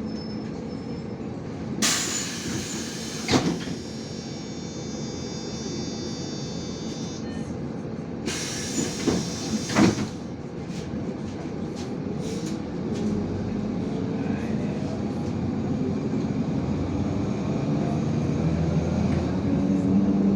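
IVECO Crossway 13M LE city bus: the engine runs low and steady while two loud bursts of air hiss sound, about two and eight seconds in, typical of the pneumatic doors working at a stop. From about halfway, the engine note rises and grows louder as the bus pulls away.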